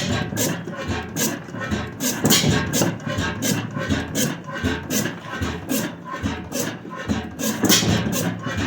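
1898 Crossley gas engine with hot tube ignition running steadily, its strokes making an even, rhythmic chuff and clack about two times a second.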